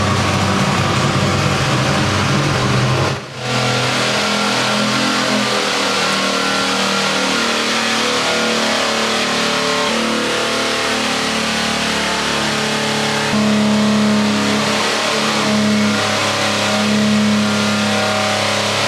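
Big-block engine running hard under load on an engine dyno, loud and sustained, with a brief dip about three seconds in and its pitch shifting in steps.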